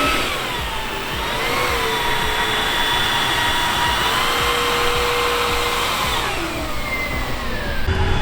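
Electric ducted fans of a giant-scale RC jet whining at part throttle: the pitch dips, climbs and holds steady, then falls away about six seconds in as the throttle comes back.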